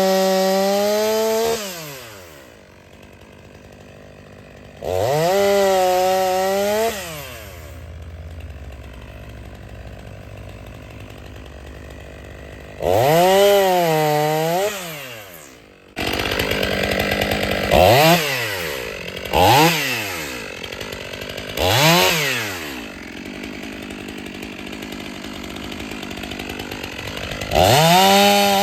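Stihl MS 500i two-stroke chainsaw revving to full throttle in repeated bursts, dropping back to idle between them. There are four longer runs of a second or two and three brief blips.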